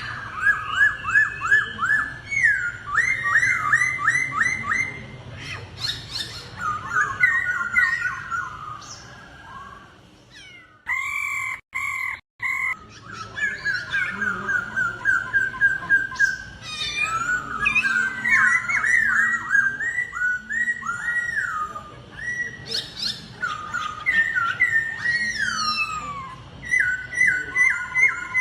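Laughingthrush (khướu) singing in competition style: rapid runs of clear, repeated whistled notes in loud phrases, with a brief break about eleven seconds in.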